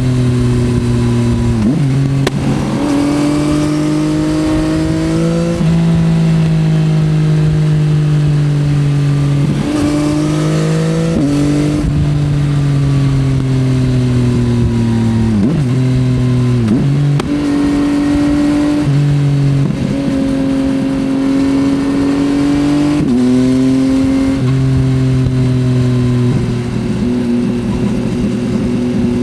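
Yamaha XSR900's inline three-cylinder engine with an Akrapovič exhaust, heard from the rider's seat, working through the gears: its pitch climbs and falls continually, with several sudden jumps and drops at shifts and on and off the throttle.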